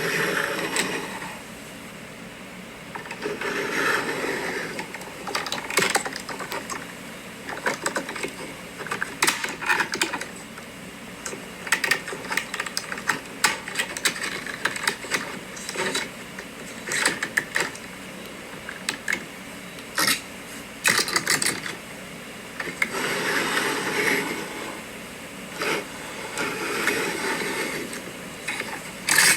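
Toy trucks with die-cast cabs and plastic trailers being handled: irregular plastic clicks, knocks and rattles, with longer stretches of scraping or rubbing.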